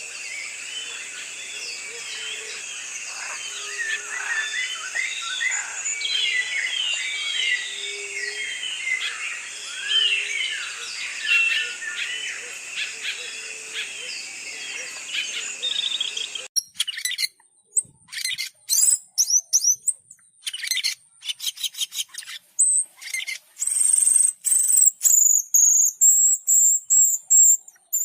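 Aviary birds calling: a dense chorus of many overlapping chirps over a steady hiss. Partway through this changes abruptly to separate, louder sharp chirps from birds close by, ending in a long high whistled note.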